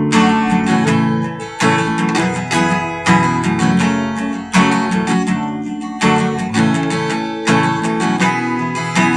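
Acoustic guitar strumming chords in a steady down-and-up rhythm, with an accented strum about every second and a half.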